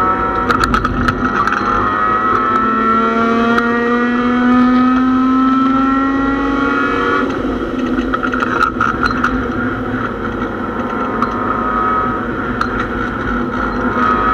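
Mazda MX-6 racecar engine heard from inside the stripped cabin at racing speed, its note climbing steadily, then breaking off and dropping in pitch about seven seconds in, and climbing again near the end. Sharp rattles and clicks come through now and then.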